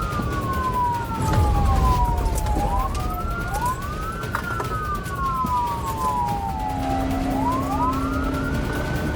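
Police car siren wailing in two overlapping tones, out of step, each rising quickly and then falling slowly about every three seconds, over the low rumble of the pursuing car's engine and road noise.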